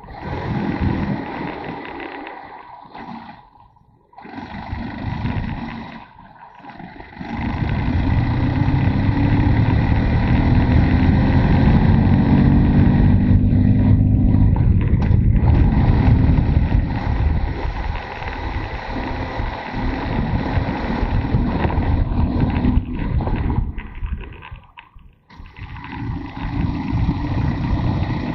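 Motorcycle on the move: engine running under a rush of wind over the microphone. The rumble swells loudest through the middle and drops away briefly three times.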